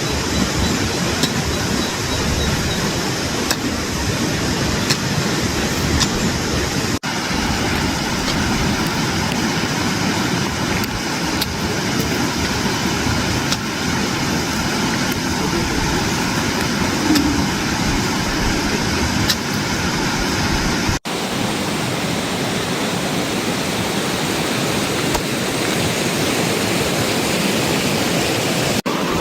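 Steady, loud rush of water from heavy rain and swollen runoff, breaking off for an instant twice.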